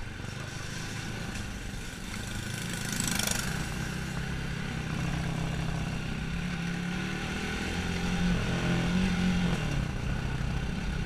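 Motorcycle engine running while riding, getting louder and rising a little in pitch with the throttle near the end before easing off. A brief hiss comes about three seconds in.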